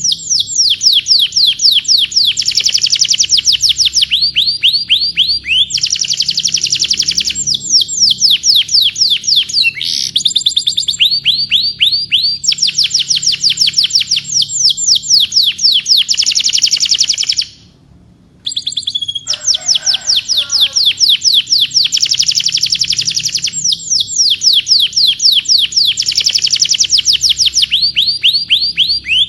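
Domestic canary singing long, rapid trills of repeated falling high notes, one roll after another, with a short break about two-thirds of the way through.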